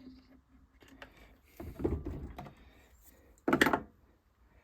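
Handling noise from a two-stroke hedge trimmer's plastic fuel tank as the fuel pipe and its pickup weight are worked out through the filler hole: a rubbing scrape about two seconds in, then a short, sharper knock about three and a half seconds in.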